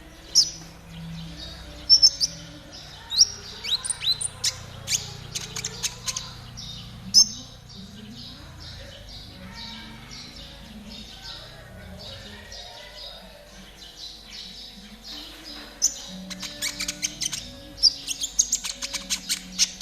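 Konin (brown-throated sunbird) singing a fast trotol song of rapid, high chips and trills. The song comes in dense bursts, busiest in the first several seconds and again near the end, sparser in the middle.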